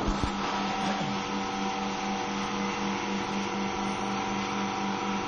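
Steady machine hum, with a strong low tone and several fainter steady tones over an even hiss, plus a couple of faint clicks about a second in.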